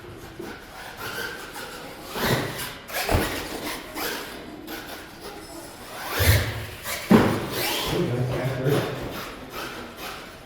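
Radio-controlled monster truck driving over the course ramps, with several thuds and clatters as it lands jumps and bangs into obstacles, loudest about two, three, six and seven seconds in.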